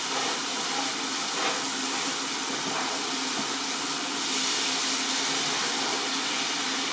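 Chicken tikka masala sizzling steadily in oil in a pan.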